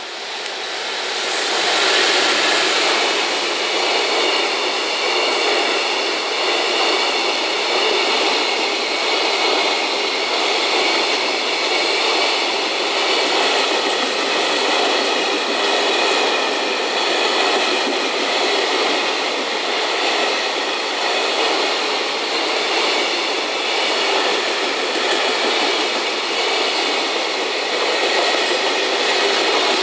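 Freight train passing close by: a JR Freight EF210 electric locomotive goes by, growing louder over the first two seconds. A long string of loaded container wagons follows, rolling past steadily, with a steady high-pitched ringing over the rolling noise.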